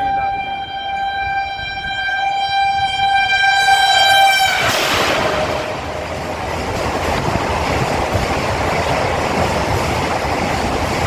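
Express train horn held on one steady note, which drops in pitch about four and a half seconds in as the train passes. A loud rushing noise of the train going by at speed follows.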